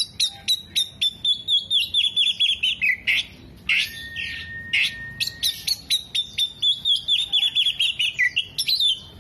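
Oriental magpie-robin (kacer) singing: a rapid run of sharp notes that quickens and falls in pitch, then one long steady whistle, then the quickening, falling run again. This is the bird's loud, mimicry-laden song.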